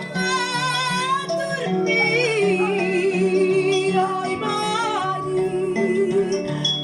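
A singer holds long notes with wide vibrato over a plucked-string accompaniment with a moving bass line.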